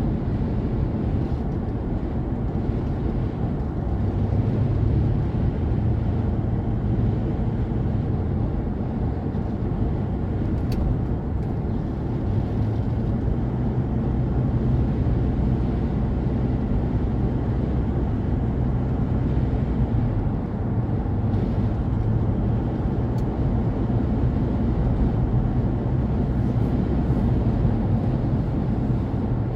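Steady low rumble of a car driving along a highway: road, engine and wind noise with no sudden events.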